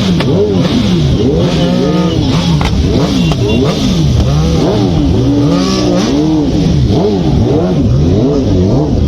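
Several superbike engines being revved over and over, their pitches climbing and dropping in quick, overlapping blips.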